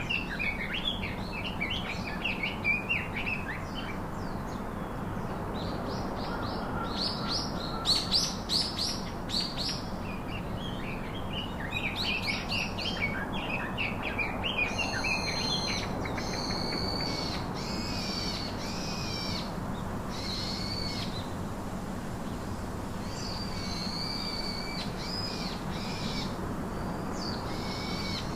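Wild birds chirping and singing, with quick runs of high chirps in the first half, then short repeated calls about once a second, over a steady background hiss.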